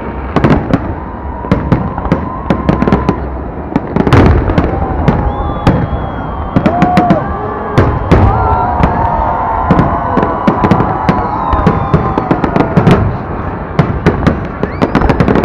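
Fireworks display: a rapid, irregular barrage of bangs and crackling reports.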